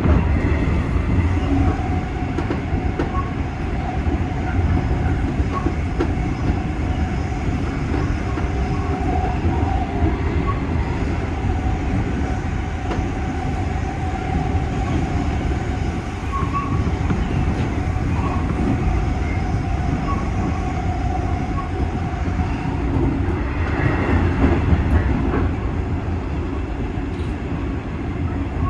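JNR 201 series electric train running along the line: a steady rumble of wheels on rail with a steady whine above it, and louder clatter about 24 seconds in.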